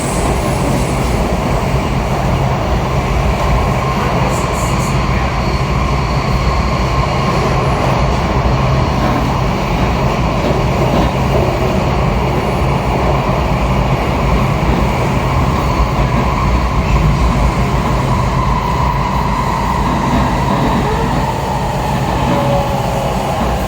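Kawasaki 7000-series Metrorail subway car heard from inside, running at speed: a steady, loud rumble of the wheels on the rails with a thin whine above it that dips slightly in pitch near the end.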